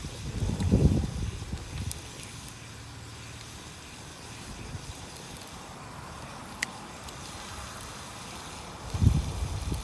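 Wood campfire crackling, a few sharp isolated pops over a steady faint hiss. Low rumbling bursts come in the first second and again near the end.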